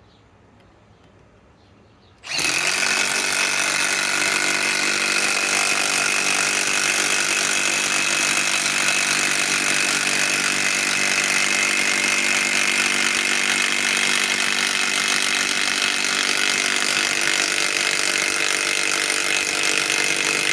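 Cordless impact wrench starting about two seconds in and hammering steadily without a break, driving a long lag screw into wood.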